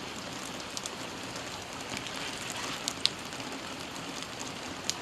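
Steady rain falling, an even hiss, with a few sharp close ticks of single drops.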